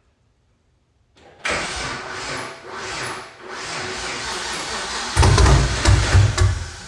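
5th-gen Chevrolet Camaro's starter cranking the engine for several seconds before it catches about five seconds in and fires into a loud, uneven rumble. It is a hard start, which the owner suspects comes from a grounding or wiring fault.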